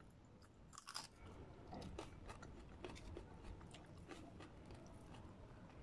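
Faint chewing of a mouthful of rice and chicken roast, with scattered small mouth clicks, the clearest about a second in.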